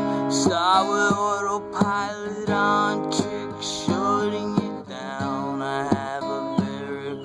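Acoustic guitar strumming in a song, with a melody line over it that bends in pitch.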